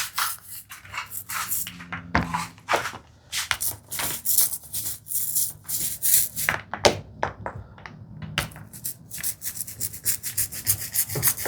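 A small paint roller rolling white PVA glue over the backs of wooden tambour slats, making a series of short, irregular rubbing strokes.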